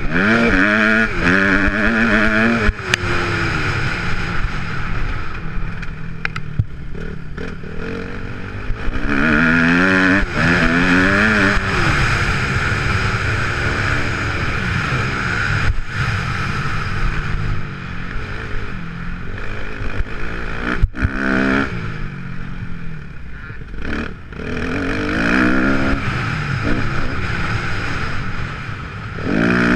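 Single-cylinder four-stroke engine of a Kawasaki KX250F motocross bike, revving up and dropping back over and over as it is ridden hard through the gears. Several sharp knocks come in the second half.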